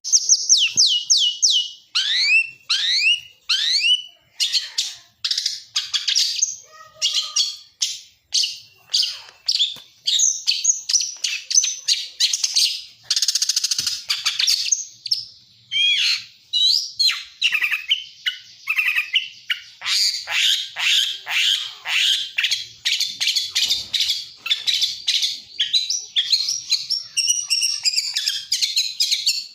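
A lacer songbird singing a long, nearly unbroken medley of quick rising and falling whistled notes, chirps and harsher buzzy phrases: its song fill.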